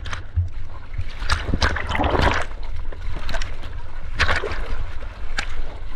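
Seawater splashing and sloshing against a GoPro while surfing, in a string of short splashes over a steady low rumble of wind and water on the microphone.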